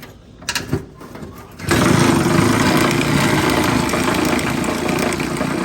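A motor-driven machine starts up about two seconds in and runs steadily and loudly, after a few short knocks.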